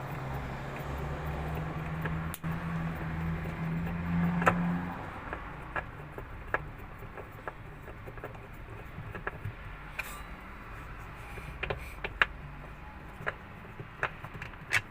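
A low steady hum for about the first five seconds, then scattered light metallic clicks and taps as screws are undone and parts of the washing machine's gearbox mounting are handled.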